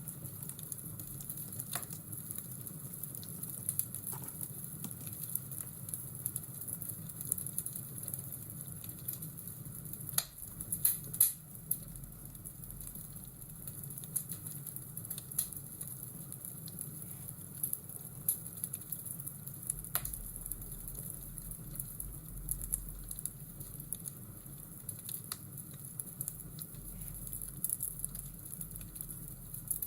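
Fireplace and rainstorm ambience: a wood fire crackling, with sharp pops scattered through it and a cluster of louder pops about ten to eleven seconds in, over a steady hiss of rain.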